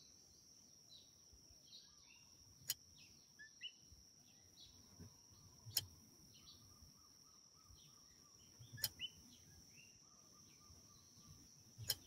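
Near silence with faint bird chirps, a faint steady high-pitched tone, and a sharp click about every three seconds.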